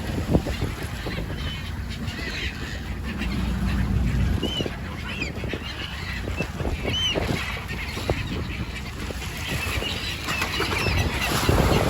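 A flock of birds calling in short, high, scattered cries over a steady low rumble of wind and water.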